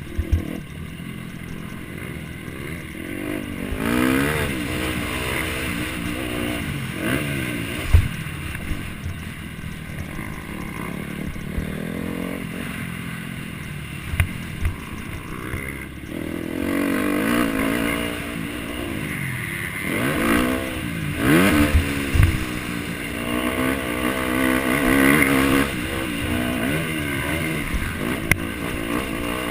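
Motocross bike engine revving hard and falling off again and again as it races, with several sharp thumps; the loudest is about eight seconds in.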